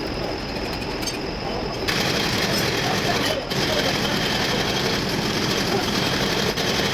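Volvo truck diesel engine running steadily. About two seconds in a louder hissing noise joins it and cuts off near the end.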